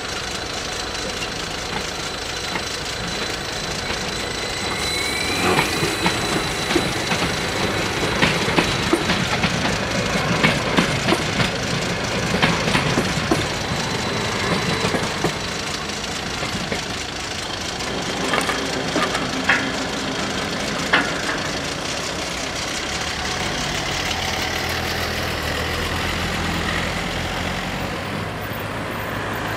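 Stadler FLIRT electric multiple unit passing over a level crossing: a short rising whine about four seconds in, then wheels clicking and knocking over the rail joints for some fifteen seconds, with a few sharper knocks near the end of the pass. Near the end, car engines running as cars cross.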